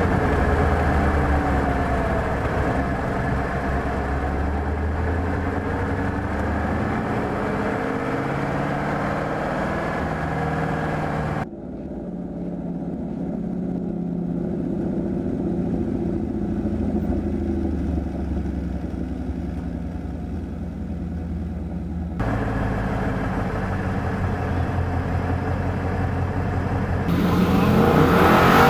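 2015 Ford Mustang GT's 5.0-litre V8 revving up and down under hard driving on a tight track, pitch climbing and falling through the corners. About a third of the way in the sound turns abruptly muffled for about ten seconds, and near the end the engine rises sharply and loudly under full acceleration.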